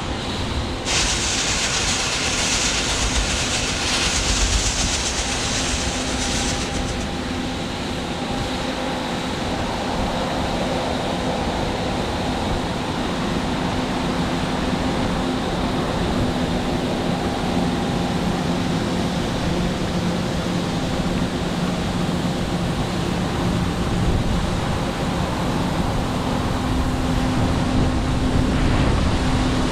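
Large harvest machinery running steadily, a diesel engine's even drone, with a loud hiss over it from about a second in until about six and a half seconds.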